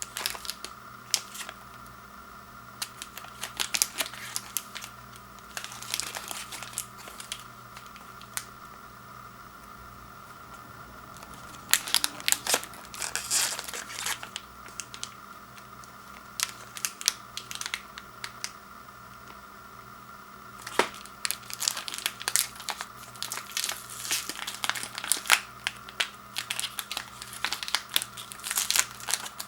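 Granola bar packaging handled: plastic wrappers and the cardboard box crinkling, with tearing, in bursts of crackles separated by short pauses.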